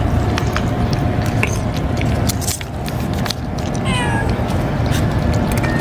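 Hungry stray cats meowing for food, with one clear falling meow about four seconds in and fainter short calls earlier, over a steady low rumble and scattered clicks.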